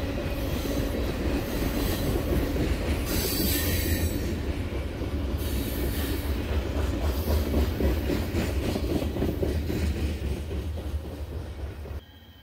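Train running on the rails: a steady, heavy rumble of wheels and cars that cuts off suddenly near the end.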